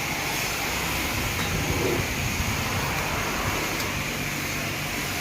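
Steady hiss and hum of a self-serve car wash's foaming brush running, with the bay's pump and water spray going on without a break.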